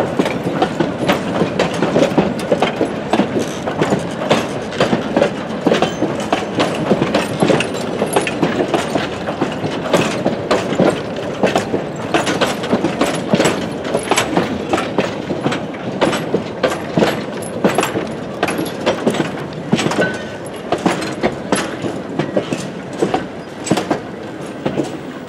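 Vintage wooden passenger coaches rolling past at low speed. Their wheels clack over the rail joints in a dense, uneven run of sharp clicks over steady rolling noise, which fades slightly near the end.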